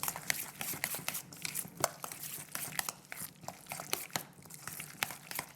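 A utensil stirring a thick mayonnaise-and-yogurt dressing in a bowl, with many irregular clicks and scrapes against the bowl and soft wet squishing.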